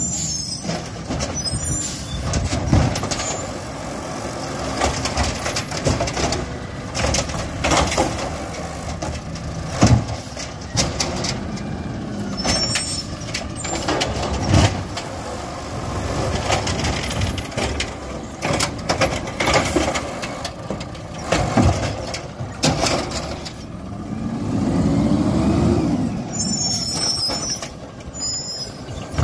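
Garbage truck at work: its engine running, with repeated sharp clanks and bangs. About three-quarters of the way through, the engine pitch rises and falls once.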